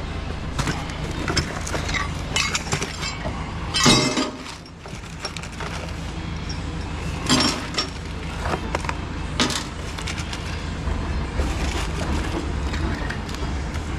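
Scattered clinks and clatter of scrap metal being handled, with a louder crash about four seconds in and two more a few seconds later, over a steady low machinery hum.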